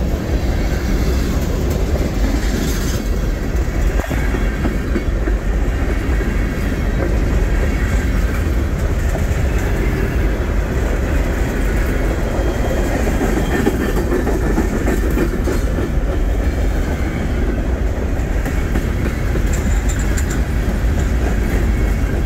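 Freight train of tank cars and boxcars passing close by: a steady rumble of steel wheels rolling on the rails, with one sharp click about four seconds in.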